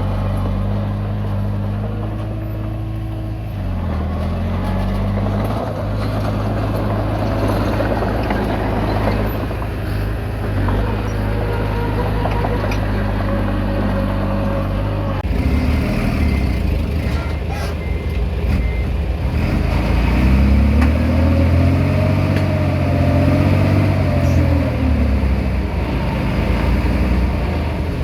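Komatsu D20P bulldozer's diesel engine running under load while it pushes soil. The sound changes abruptly about halfway through, and near the end the engine note rises and then falls as it revs.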